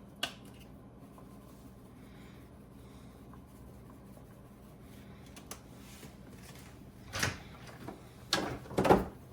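Kitchen items being handled at the stove: a single click near the start, then a low steady background, then a quick run of knocks and clatter near the end.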